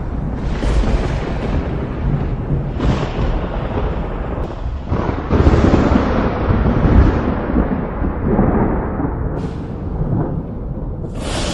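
Thunderstorm: repeated cracks of thunder rolling into deep rumbles, the loudest about five to seven seconds in.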